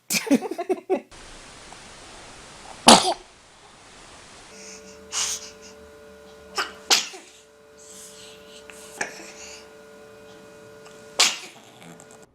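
A baby sneezing over and over: short, sharp sneezes, about seven of them spread a second or two apart.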